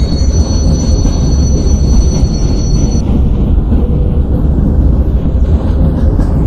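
Train running on the rails: a loud, steady low rumble. Two thin, high-pitched tones sound over it and cut off suddenly about three seconds in.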